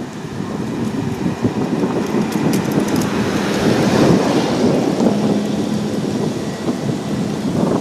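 Wind buffeting the microphone: a loud, continuous rumbling noise with no speech. A faint steady hum shows through twice.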